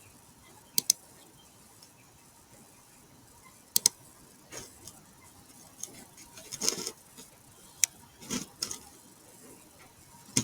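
Computer mouse clicking in quiet room: a double click about a second in, another double click near four seconds, and a single click near eight seconds, with a few faint softer sounds between.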